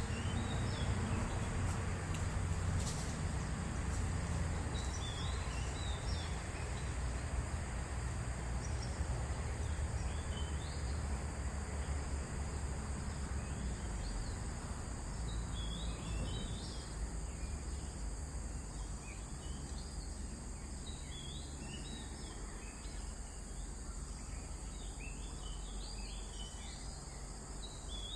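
Outdoor ambience: a steady high insect drone with short bird chirps, which come thicker in the second half, over a low rumble.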